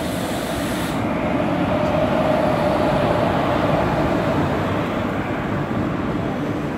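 Passenger train running on the rails, a steady rumble and rattle heard from on board, with a faint steady whine for a couple of seconds in the middle.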